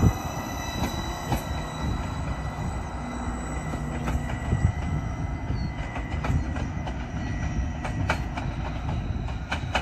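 Greater Anglia Class 755 bi-mode train pulling away from the platform, a steady rumble with a thin high whine on top. Sharp clicks from the wheels on the track come every second or two.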